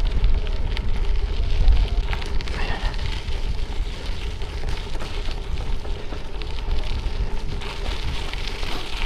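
Gravel bike's 45 mm Panaracer GravelKing SK Plus tyres crunching and crackling over a gravel road at riding speed, with wind rumbling on the microphone.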